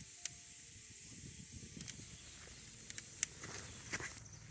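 A steady high hiss with a few sharp clicks and taps, the most prominent ones in the second half.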